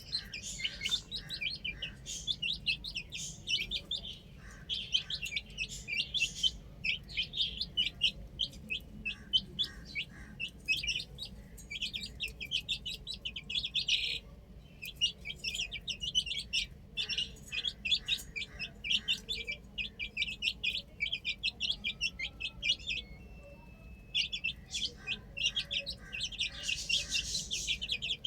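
A group of baby chicks peeping: rapid, high chirps overlapping almost without pause, with a couple of brief lulls.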